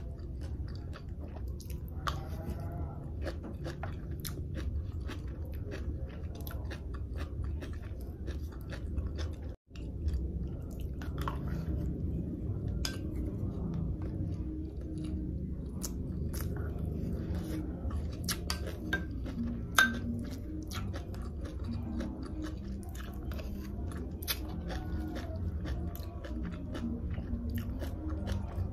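Close wet chewing of sea grapes (lato) dipped in vinegar sauce, with many small crisp clicks and pops. There is a brief dropout about ten seconds in.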